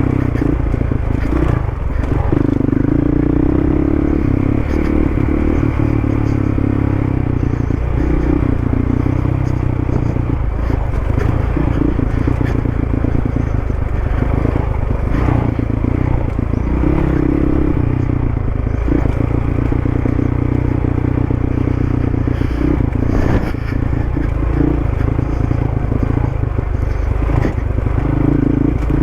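Dual-sport motorcycle engine running steadily under way, its note swelling and easing, with wind noise and scattered clattering knocks from the bike over the ground.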